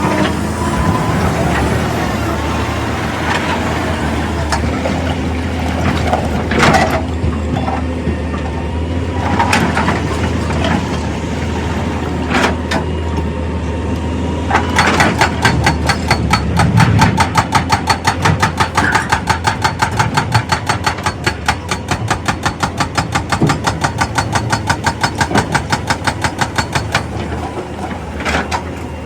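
Heavy machinery: a diesel engine running steadily with a few sharp knocks, then from about halfway a rapid, even hammering of several strokes a second.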